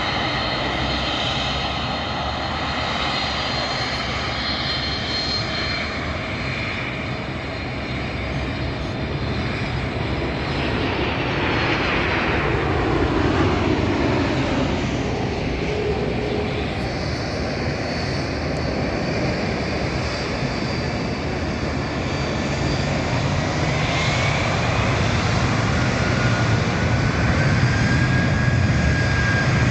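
Boeing 767-300 jet engines running with a steady rush and a high whine. In the last few seconds a whine rises in pitch and the sound grows louder as the engines spool up for the takeoff.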